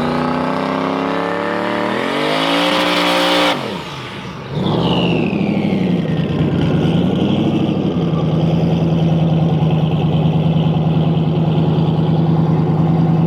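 Drag-racing car engine revving with the pitch climbing, cutting off suddenly about three and a half seconds in. A falling whistle follows, then the engine settles into a steady, evenly pulsing note held for the rest of the time.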